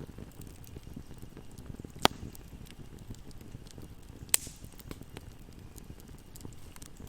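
Fire burning in a fireplace: a low steady rumble of flame under constant small crackles, with two loud sharp pops about two seconds apart.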